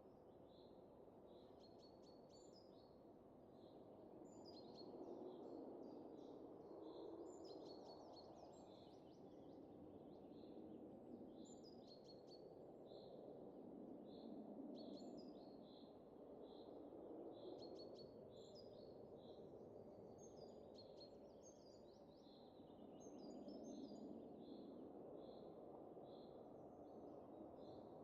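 Faint wind swelling and easing in slow gusts every few seconds, with small birds chirping: a short high chirp repeated about every half second, and now and then a quicker, higher call.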